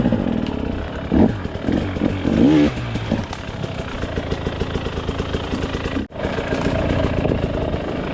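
Dirt bike engine running and revving up and down as it climbs a steep, rough hill.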